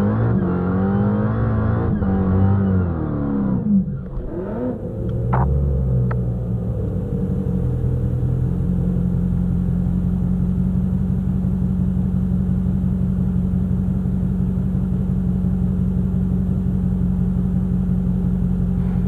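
Supercharged Dodge Hellcat V8 heard from inside the cabin. Its pitch wavers as the car creeps forward at walking pace, then it settles into a steady idle about eight seconds in.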